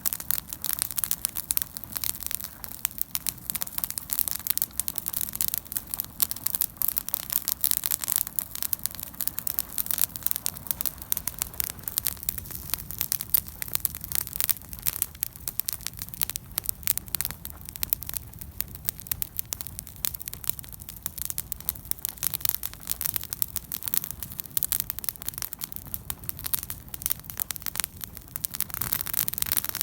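Wood fire burning with a dense, irregular crackle of snapping and popping.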